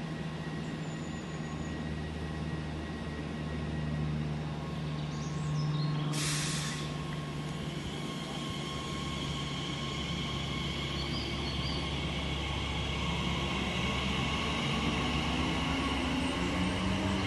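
Electric multiple-unit train whining steadily, its motor whine rising slowly in pitch over the second half as it gathers speed, with a short hiss of air about six seconds in.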